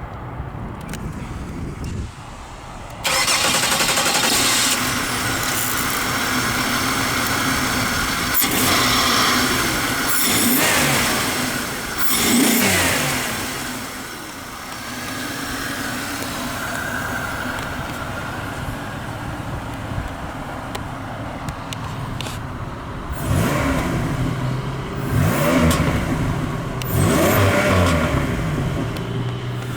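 A 2002 Chevrolet Monte Carlo SS's 3.8-litre V6 starting about three seconds in and running, with the revs rising and falling a few times.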